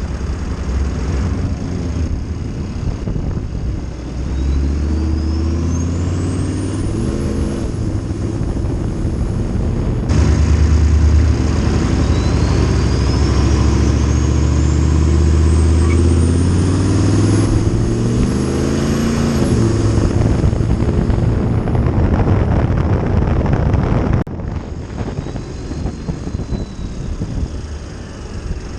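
GM 6.5-litre turbo-diesel V8 pickup engine pulling hard under acceleration, its note climbing, with a high turbo whistle rising in pitch as it spools up, twice. The sound changes abruptly about ten and twenty-four seconds in, where separate clips are joined.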